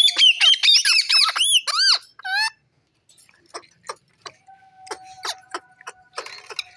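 Pet parrot giving a rapid string of loud, arching, squeaky chirps for about two and a half seconds, ending in one longer call. Only faint clicks follow.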